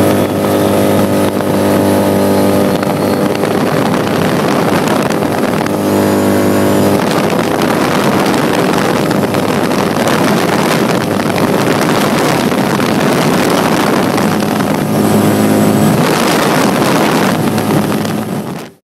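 2011 Polaris RZR S side-by-side's twin-cylinder engine running loud through an aftermarket Looney Tuned dual exhaust. The note holds steady near the start, again briefly about six seconds in and about fifteen seconds in, and turns rougher and noisier between. It cuts off suddenly near the end.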